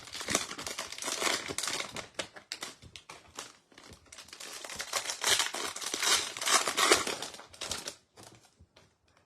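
A Mosaic trading-card pack's wrapper being crinkled and torn open, a dense crackling that dies away about eight seconds in.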